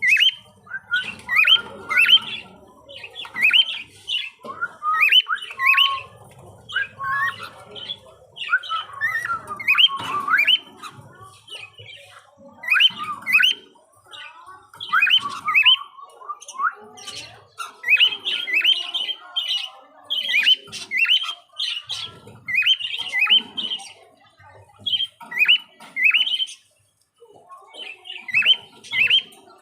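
Budgerigars calling: short rising chirps and squawks in quick groups of two or three, repeated over and over with brief pauses.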